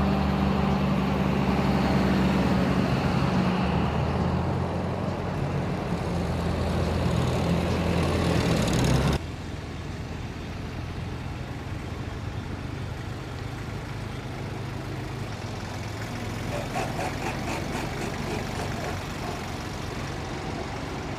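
Tractor engines running with a steady low drone. About nine seconds in, the sound drops suddenly to a quieter, steady engine rumble.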